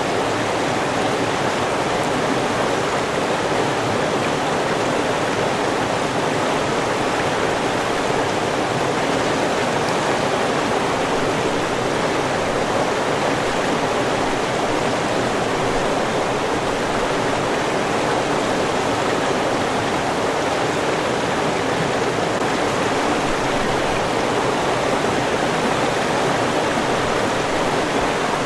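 River water flowing and rushing steadily, an even, unbroken sound of running water.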